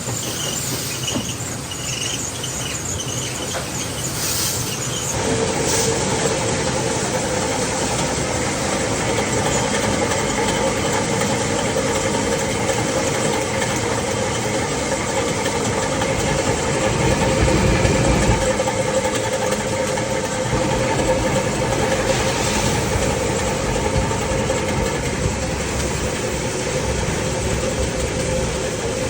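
Workshop machinery running steadily, with a steady whine that sets in about five seconds in.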